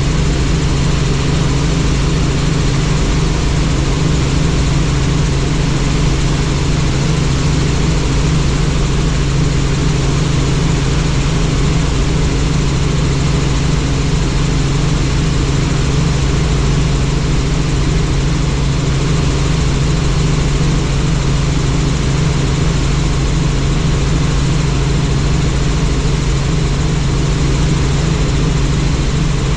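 Helicopter in flight: the steady drone of its rotor and engine, centred on a strong low hum with a fine, even pulsing.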